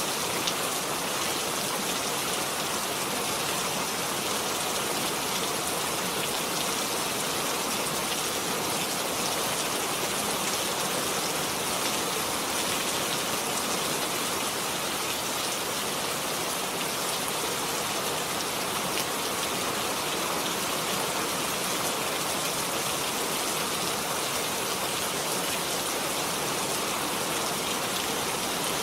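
Steady heavy rain: an even hiss of many drops falling on a surface, without a break or change.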